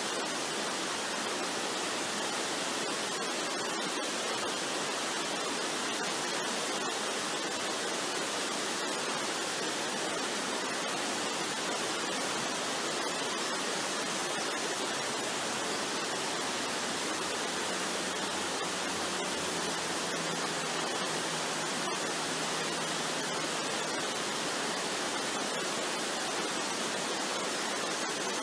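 Waterfall rushing: a steady, even hiss of falling water with no change in level, flecked with faint scattered ticks.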